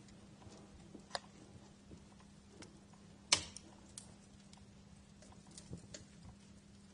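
Wood fire crackling in a fireplace: scattered sharp pops and ticks, the loudest a single pop about three seconds in, over a faint steady hum.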